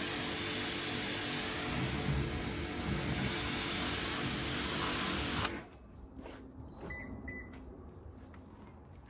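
A machine runs with a steady, loud hiss over a low rumble, then cuts off abruptly about halfway through. In the quiet that follows come two short, high beeps.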